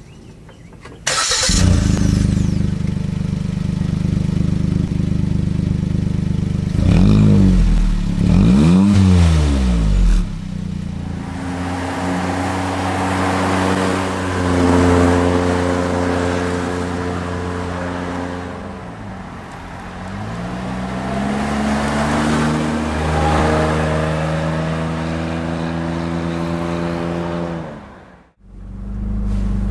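Suzuki Jimny JB64W's 660 cc turbo three-cylinder running through its exhaust, the engine note rising and falling as it revs and drives. The sound starts abruptly about a second in and breaks off sharply near the end.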